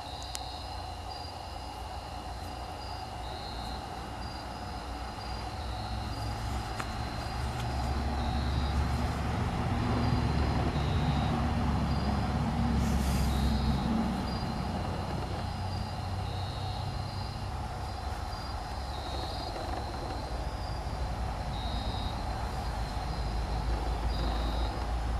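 Low engine rumble of a distant motor vehicle, swelling about eight seconds in, fading after about fourteen and building again near the end. Night insects call throughout in short, evenly repeated high chirps.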